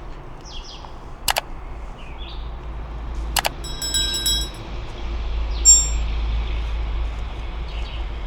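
Outdoor ambience: two sharp clicks, then a brief ringing metallic clink about four seconds in, with a shorter ringing tone near six seconds. There are a few faint bird chirps and a low steady rumble.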